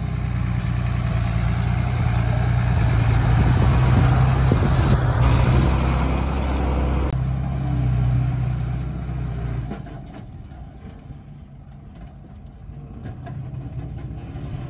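Heavy diesel engine running, its note building to the loudest point about four seconds in, then dropping off sharply near ten seconds in to a quieter running level and rising again near the end.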